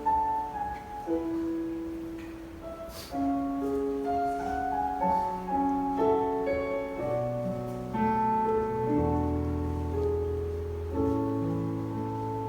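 Piano-voiced keyboard playing a slow worship-song intro: held chords under a simple melody line, with deep bass notes joining about seven seconds in.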